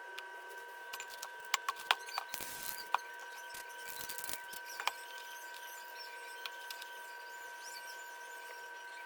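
Spray-painting handling noises: several light clicks and taps of cans and tools in the first few seconds, with a short hiss about two and a half seconds in, over a faint steady high whine.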